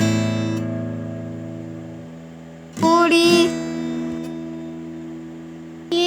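Acoustic guitar strummed slowly, one chord at a time, each left to ring and fade away. About three seconds in comes a second strum with a brief sung note over it.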